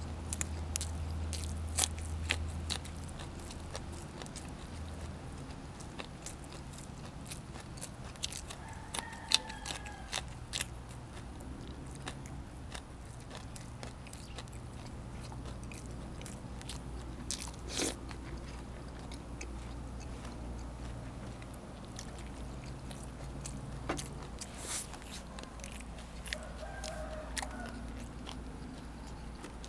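A person eating close to the microphone: chewing with crunchy bites of pork ribs and raw vegetables, and many short sharp clicks scattered throughout. A low steady hum runs underneath.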